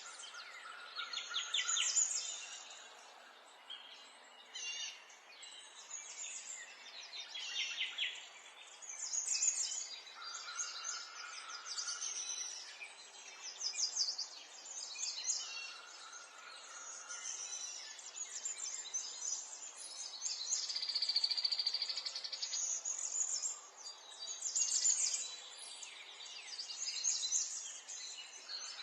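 Several small songbirds chirping and singing in overlapping high-pitched phrases of quick trills, with a few held whistled notes, over a faint steady background hiss.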